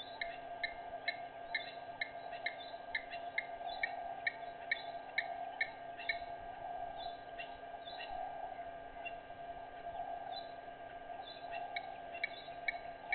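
A bird's short, sharp chirp repeated about twice a second. It stops for a few seconds about halfway through and starts again near the end, over a steady background drone.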